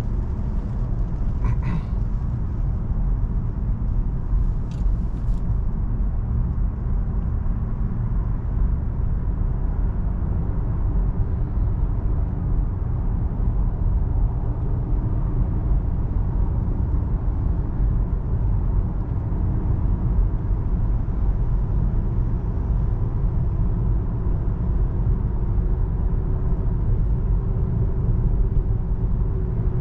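Steady road and tyre noise inside the cabin of an electric Tesla Model 3 cruising on a freeway, a continuous low rumble with no engine note. A few faint clicks come in the first few seconds.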